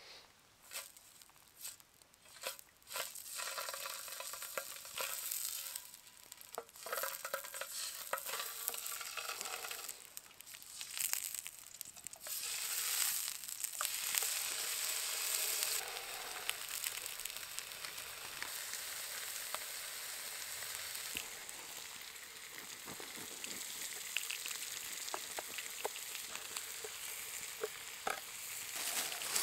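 Sausages and bacon frying in hot oil in a wide steel pan over a campfire: a steady sizzle, loudest about halfway through.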